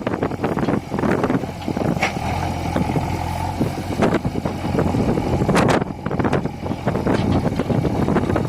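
Diesel engines of a tractor and a backhoe loader running under load while freeing a loaded trolley stuck in mud, with a sharp metallic clank about four seconds in and another near six seconds.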